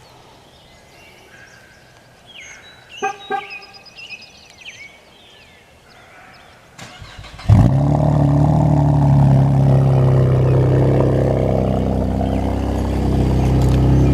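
Cold start of a 2015 Chevrolet Camaro's 3.6-litre V6 with its mufflers deleted: after a few faint chirps, the engine fires about halfway through with a sudden loud flare, then settles into a loud, steady fast idle.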